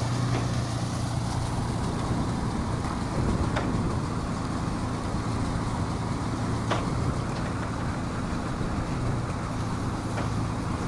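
Crane's engine running steadily at a constant low pitch, with a couple of faint clicks.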